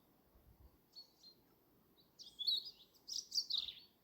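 Small birds chirping, a brief call about a second in and then a quick run of high chirps through the second half.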